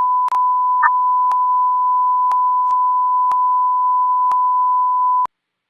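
A loud, steady electronic tone, one pitch near 1 kHz, with a faint click about once a second; it cuts off suddenly a little past five seconds in.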